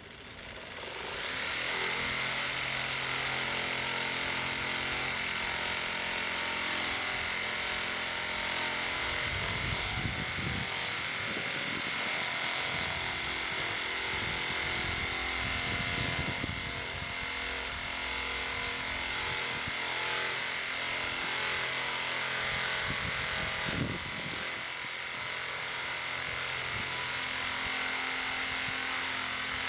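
A steady machine noise with a constant high whine comes in about a second in and holds unchanged, with a few low thumps around the middle.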